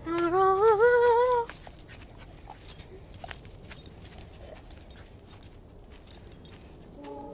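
A dog whining: one loud, wavering whine that climbs in pitch over about a second and a half, followed by faint scattered clicks.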